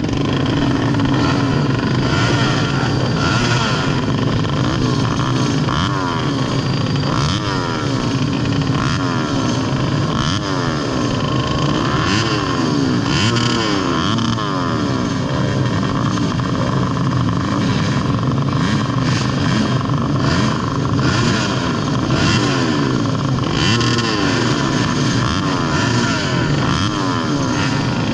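Modified underbone (bebek) motorcycle engine racing on a dirt track, heard close up from the bike itself, its pitch rising and falling over and over as the rider opens and closes the throttle.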